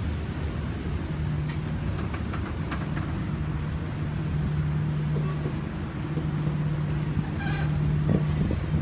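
Diesel locomotive-hauled train passing, a steady low engine drone with a few sharp clicks from the wheels on the rails.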